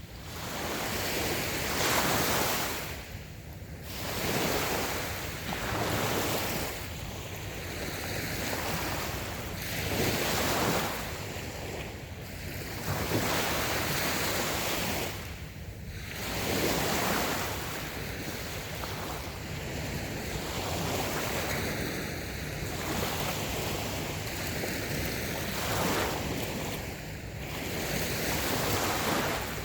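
Small waves breaking and washing up a sandy beach, the surf swelling and falling back every few seconds.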